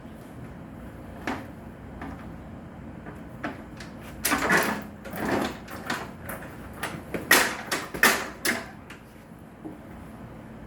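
Yamaha YZ450F single-cylinder four-stroke being kick-started with the choke on: several kicks, each a short clunk and brief turning-over, with the engine never firing. It won't start.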